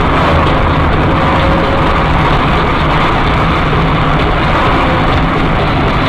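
Steady road and engine noise of a car driving, even in level with no impacts.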